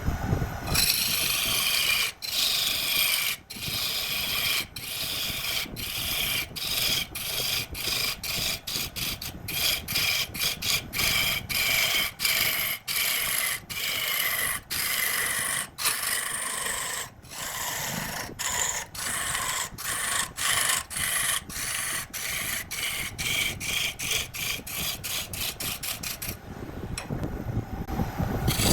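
A tool or abrasive rasping against a spinning wooden workpiece on a wood lathe, in repeated strokes broken by short pauses. The strokes come about once or twice a second at first and speed up to two or three a second toward the end, under a faint high whine that slowly falls in pitch.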